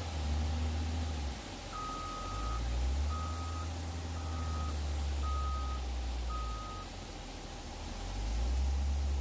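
A vehicle's reversing alarm beeping five times, about once a second, the first beep a little longer, over the low rumble of a Hino truck's diesel engine that swells and eases.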